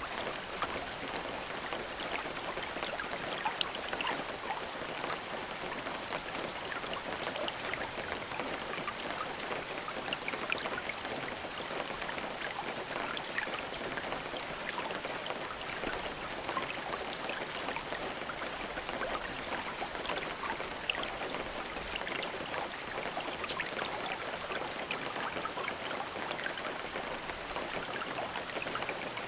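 Steady rain with no thunder, an even hiss with individual drops ticking here and there.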